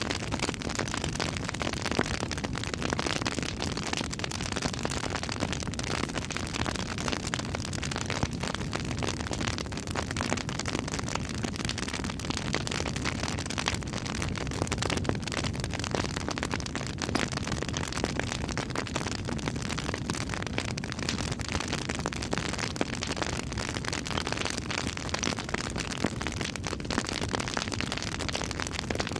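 Campfire burning with constant dense crackling and popping over an even rush of flame.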